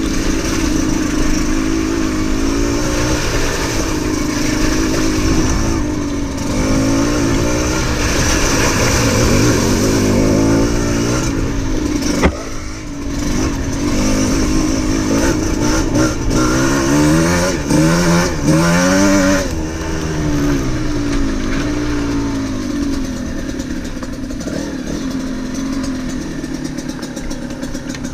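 Trail motorbike engine revving hard and easing off again and again, its pitch climbing and dropping as the throttle is worked over a rough, muddy lane. A sharp knock about twelve seconds in.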